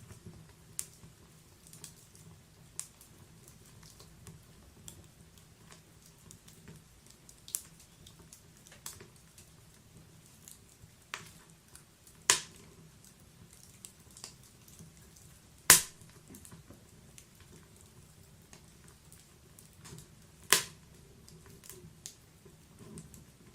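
Wood fire crackling, with scattered sharp pops from burning logs, three of them louder than the rest, over a faint low hum.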